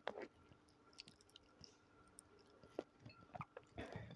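Faint, sparse chewing and wet mouth clicks from eating soft, spicy chicken feet, with near silence between the sounds and a few more at the end.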